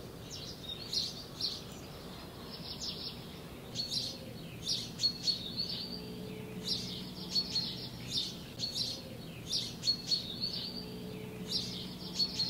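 Small birds chirping: repeated clusters of short high chirps and brief trills every second or so, over a faint low steady hum.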